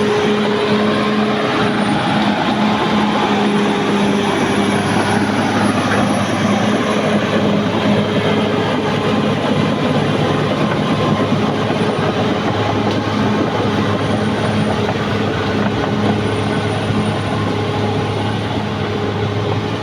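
Caterpillar D6R XL bulldozer's diesel engine running steadily under load, with the clatter of its steel tracks.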